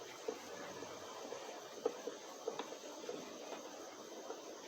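Faint, irregular light clicks and taps from the plastic housing of a vacuum cleaner being handled and closed up.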